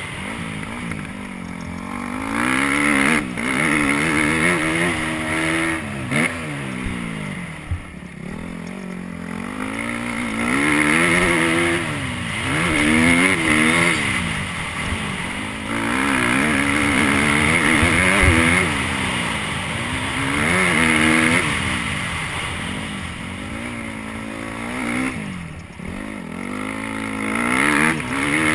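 Motocross dirt bike engine revving hard, its pitch climbing and falling again and again as the throttle is opened and shut through the track's sections.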